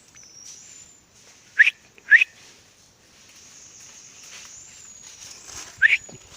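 A person whistling three short rising notes: two close together about one and a half seconds in, and a third near the end. A faint, thin high-pitched tone carries on behind them.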